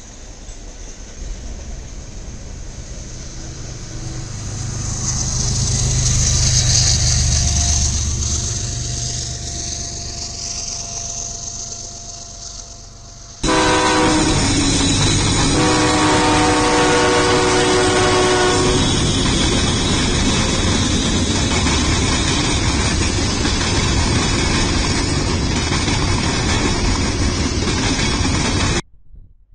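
A freight train of loaded flatcars rolls past, its wheel-on-rail rumble swelling and then fading. After a sudden cut, a locomotive horn sounds a short blast and then a longer one over much louder passing-train noise. Flatcars carrying tanks then roll steadily past, and the sound stops abruptly near the end.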